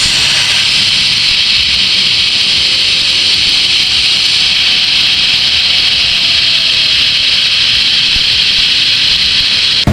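Shop compressed air rushing through a venturi cooling-system vacuum tool in a steady, loud hiss, pulling a vacuum on a 3.6L V6 cooling system to draw out trapped air and check for coolant leaks. The hiss cuts off abruptly at the very end.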